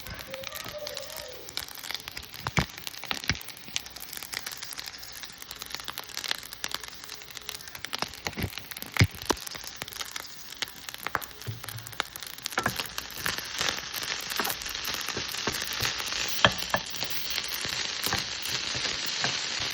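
Fried rice frying in a pan: a steady sizzle broken by sharp clicks of a utensil knocking against the pan. The sizzle grows louder about two-thirds of the way through.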